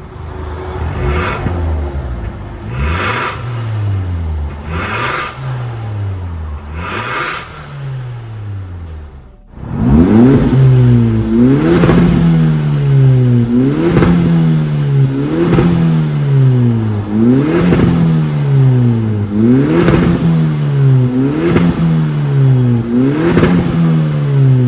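Hyundai Elantra Sport's 1.6-litre turbocharged four-cylinder heard through an MS-R valved exhaust muffler, revved in quick blips that rise and fall in pitch. About four softer revs, then a sudden break about nine seconds in, followed by about eight louder revs.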